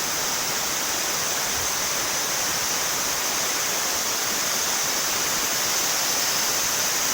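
Rain-swollen river rushing in flood, a steady, even roar of fast, muddy water.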